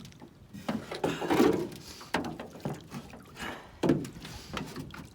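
Water splashing around a canoe in several irregular bursts, the loudest about a second in and again near four seconds.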